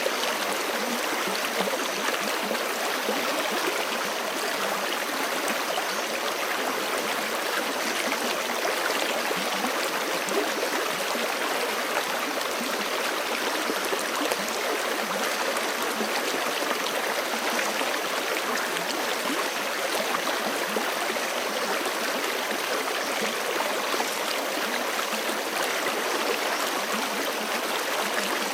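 Forest creek flowing steadily over rocks, a continuous rushing and babbling of water with no change in level.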